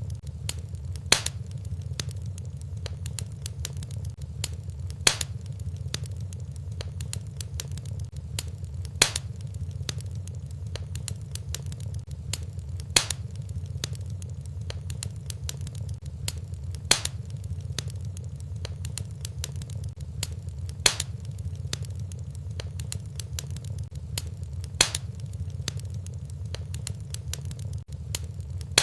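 Wood fire burning in a fireplace: a steady low rumble with small crackles throughout and a sharper pop about every four seconds. The pops recur at even spacing, the sign of a short recording played on a loop.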